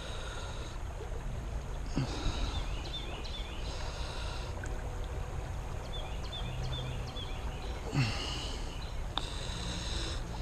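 Outdoor creek ambience: a steady low background rumble, with a bird repeating a short phrase of high chirps about every three to four seconds.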